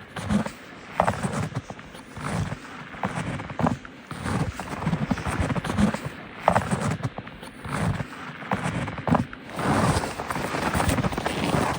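Footsteps crunching through snow at a steady walking pace, about one and a half steps a second.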